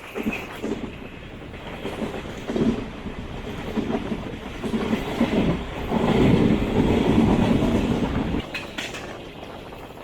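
Train wheels rumbling and clacking over the rails. The sound builds to its loudest about six seconds in, then drops away suddenly at about eight and a half seconds.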